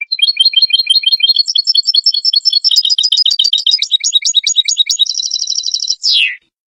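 European goldfinch singing: a rapid run of high twittering notes that turns into a faster trill about five seconds in, ending with a quick falling note and then cutting off.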